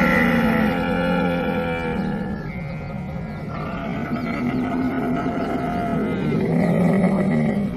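Camel bellowing and growling in long, rough calls, loudest at the start and again a little before the end, then breaking off.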